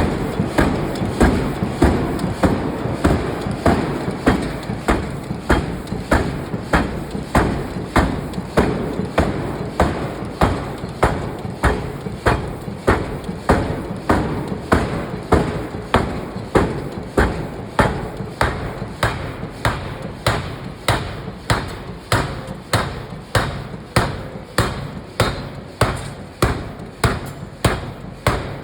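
Hammer blows on steel being forged, struck in a steady, even rhythm of about three blows every two seconds, each with a short ring.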